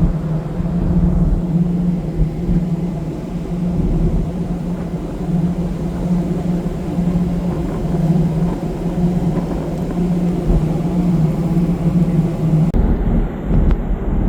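Steady low drone of a ferry's engines under way, a constant hum over a rumbling wash of noise.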